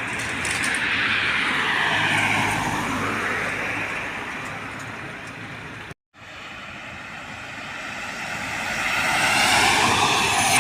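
Trucks passing on a road, with tyre and engine noise. One passes and fades in the first half, the sound breaks off abruptly about six seconds in, and another swells up as it approaches near the end.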